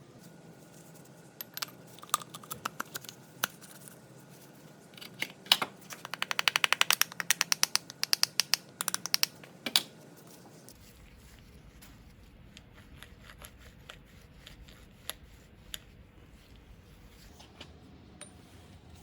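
Small metal tool and machine parts being handled and fitted, making sharp clicks and taps. In the middle comes a fast, even run of clicks, about ten a second, for about two seconds. After that only faint scattered ticks remain.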